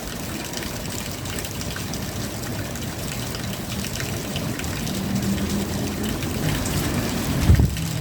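Steady rain falling, a dense patter of drops, with a faint low hum underneath and a low thump near the end.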